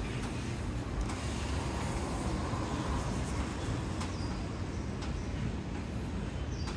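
Steady low background rumble, with a faint click about four seconds in.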